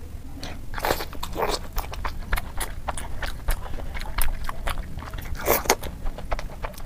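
Close-miked biting and chewing of a soft pink-and-white Indian milk sweet: a steady run of mouth clicks and smacks, with louder bites about a second in and again near the end.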